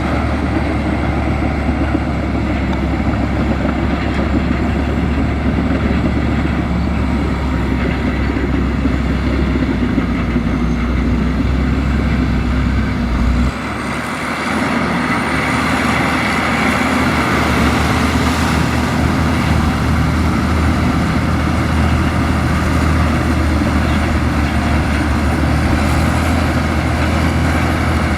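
Heavy diesel earthmoving machinery running steadily. About halfway through, the low engine hum drops away briefly and the sound turns brighter, with a thin, wavering high whine.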